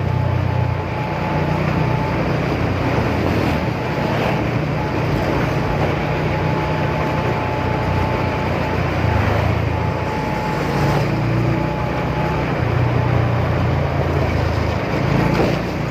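Motorcycle engine running under way, a steady low drone that rises and falls a little in pitch, with wind and road noise over it.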